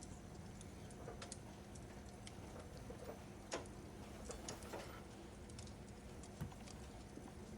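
Fireplace crackling: scattered sharp pops and snaps over a low steady rumble, the loudest snap about three and a half seconds in, with a cluster of smaller ones around four and a half seconds.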